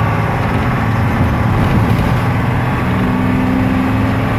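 Blue Bird bus engine running steadily while the bus drives, a loud continuous drone; a stronger engine tone comes in about three seconds in.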